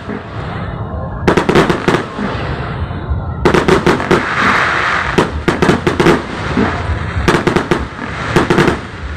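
Fireworks going off in quick volleys of sharp bangs and crackles. There are four clusters, spaced a second or two apart.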